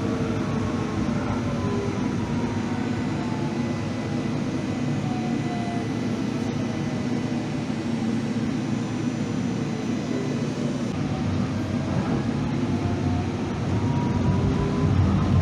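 Electric rail vehicle running with a steady rumble and a gliding traction-motor whine. The whine falls in pitch over the first several seconds, then rises again near the end as the sound grows louder, as when slowing and then picking up speed.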